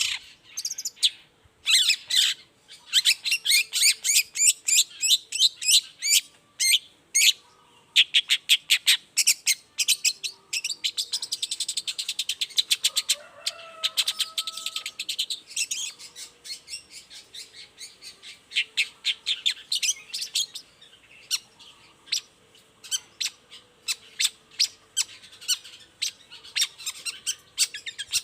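Long-tailed shrike (cendet) singing: a long run of rapid, sharp chirps and stuttering notes, breaking into a very fast trill about halfway through.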